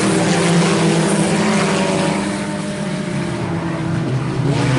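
A field of IMCA Sport Compact race cars' four-cylinder engines running hard together as the pack accelerates on a double-file restart, dipping slightly midway and swelling again near the end.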